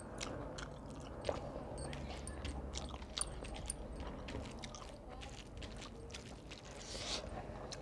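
A person chewing mouthfuls of rice eaten by hand, with many small irregular wet mouth clicks and smacks. There are light scrapes as fingers mix rice on a steel plate.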